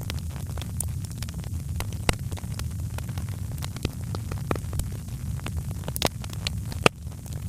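Wood fire in a fireplace crackling, with scattered sharp pops and snaps over a low steady rumble; two of the louder pops come about six and seven seconds in.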